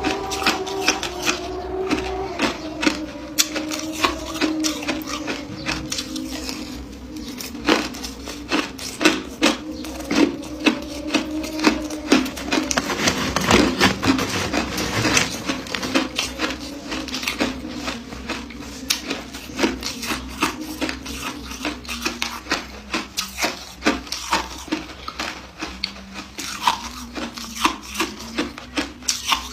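Close-up crunching of ice being bitten and chewed: a dense run of irregular sharp cracks and crunches, thickest about halfway through. A steady low hum sits underneath.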